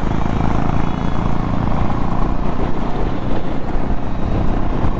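Honda CB650R's inline-four engine running at a steady cruise, mixed with wind rush on the rider's microphone.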